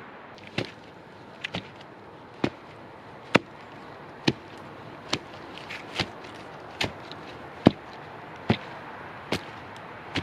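A hand tool striking wood or bamboo in about a dozen sharp, regular blows, a little more than one a second.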